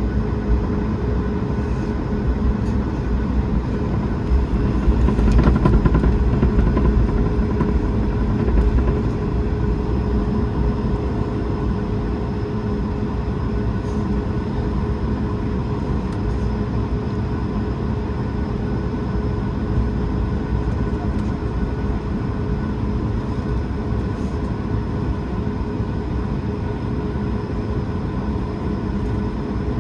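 Airbus A220's Pratt & Whitney PW1500G geared turbofan engines running steadily: a low rumble with a steady whine on top, swelling slightly about five seconds in.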